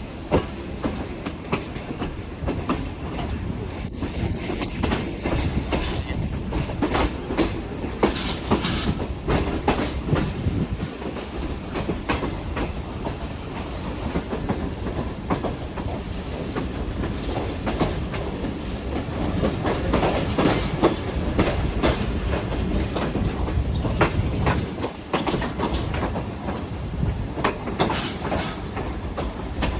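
Moving passenger train: a steady rumble of the coaches with the wheels clicking and clattering over the rail joints.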